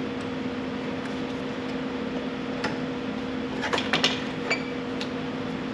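Steady background hum with a few light clicks and rattles about halfway through, from handling the tractor's air-conditioning screens.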